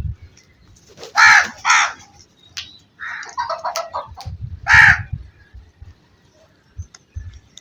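Crows cawing: two loud harsh caws about a second in, a quicker run of shorter calls a couple of seconds later, then another loud caw.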